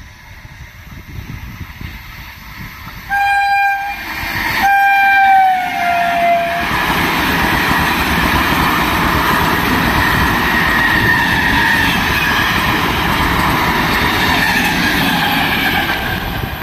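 MEMU electric passenger train sounding its horn on approach, two blasts, the second dropping in pitch as the train passes close by at about 110 km/h. Then a long, steady rush of wheels on rail with rolling clatter as the coaches go past.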